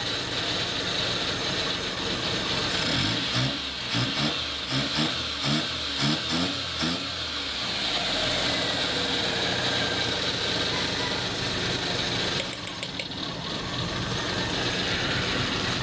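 Suzuki F6A 12-valve three-cylinder engine running just after it started on the first crank, with its hard-start trouble fixed at the CDI distributor. It is revved about six times in quick succession a few seconds in, then settles to a steady idle.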